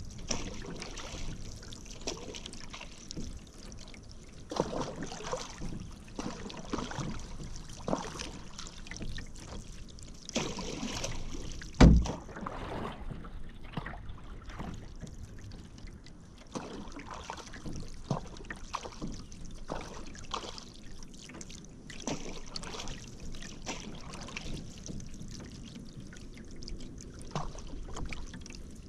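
Paddle strokes dipping into river water, with water trickling and dripping off the blade, in an uneven rhythm. A single loud knock comes about twelve seconds in.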